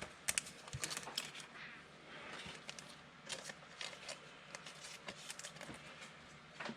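Football trading cards being handled and flipped through: a scattered run of light clicks and soft sliding rustles.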